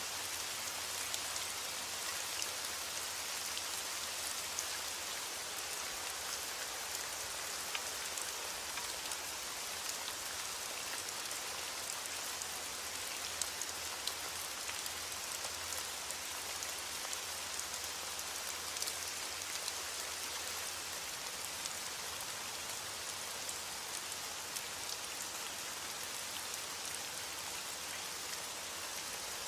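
Heavy rain beating on window glass: a steady, even hiss with many small sharp ticks scattered through it.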